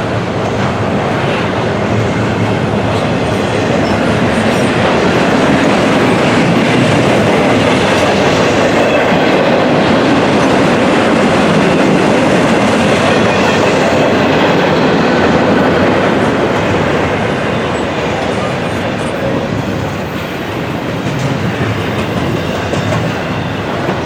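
A train rolling past, its wheels running steadily on the rails, loudest in the middle and easing off near the end.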